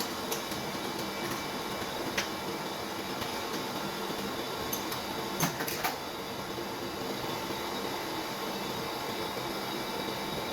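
A steady mechanical hum running throughout, with a few short sharp clicks or taps, the loudest a little past halfway.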